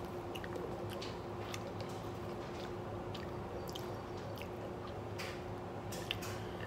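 Quiet chewing of crab meat, with scattered small wet mouth clicks and smacks, over a steady low hum.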